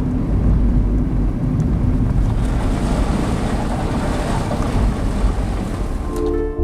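Steady road and wind noise of a car driving, heard from inside the vehicle. Plucked, harp-like music comes in near the end.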